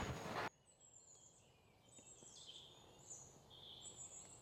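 Faint bird chirps, short and high, scattered over quiet outdoor background. A louder sound cuts off abruptly about half a second in.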